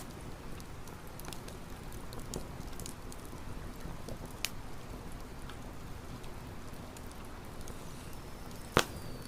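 Campfire burning with a steady low rush and scattered crackles, then one loud sharp pop from the wood near the end.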